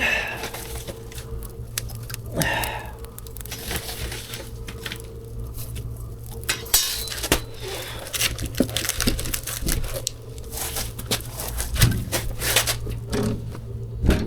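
Firewood being loaded into a wood-fired boiler: irregular clunks, knocks and clatters of logs against each other and the metal firebox, over a steady low machine hum.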